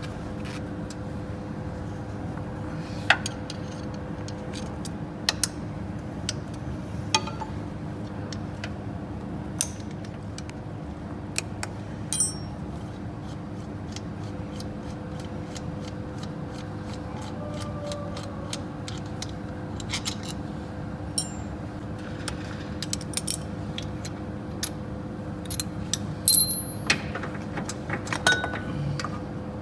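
Scattered metallic clinks and taps of hand tools and engine parts being handled during engine disassembly, some with a short ring, over a steady hum.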